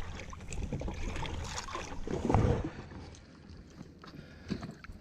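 Small knocks and rattles from handling a freshly landed fish and jigging tackle aboard a jet ski, with one louder thump a little over two seconds in, then quieter.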